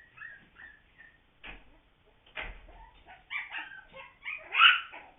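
Young puppies whimpering and yipping: short high squeaks at first, then a run of louder yips and whines, the loudest near the end.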